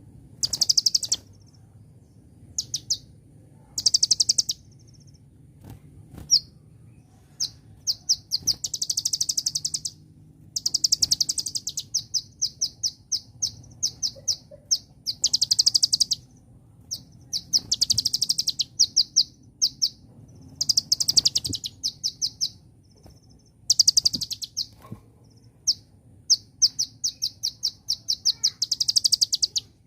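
A kolibri ninja (konin) sunbird singing: fast, high-pitched chirping trills in repeated runs of one to two seconds, broken by short pauses.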